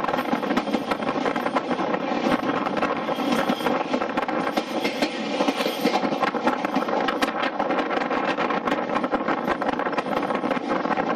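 Train running along the track, heard from beside a carriage window: a steady rumble and rattle of wheels on rail, with many short clicks.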